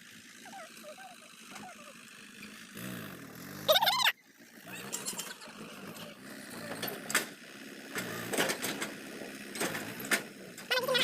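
Vehicle engine running with clatter. About three seconds in, a loud pitched sound rises and cuts off abruptly.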